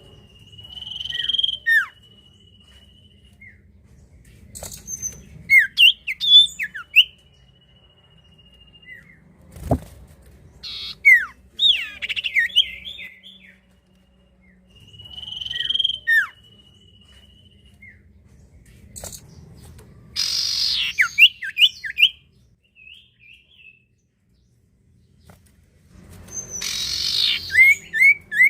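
Common iora (cipoh, also called sirtu) singing: long drawn whistles followed by quick runs of chirps and trills, repeated several times. A single sharp knock about ten seconds in.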